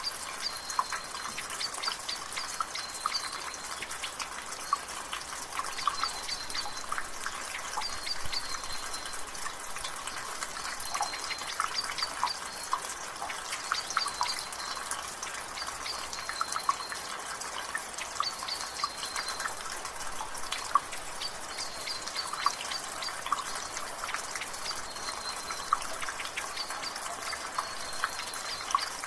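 Water dripping and trickling from a rain gutter in a light rain, with many irregular drips over a steady drizzle hiss. A bird calls again and again in the background, a short high note every few seconds.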